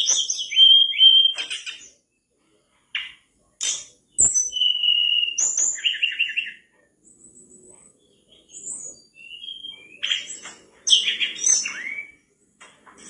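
Mangrove blue flycatcher singing hard: bursts of high, clear whistled phrases, some sliding down in pitch and some in quick runs of notes, separated by short pauses.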